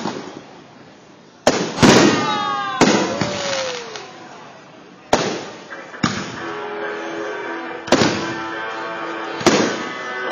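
Aerial firework shells bursting overhead: about six sharp booms at irregular intervals of one to three seconds, two of them close together early on, each trailing off in a rumbling echo.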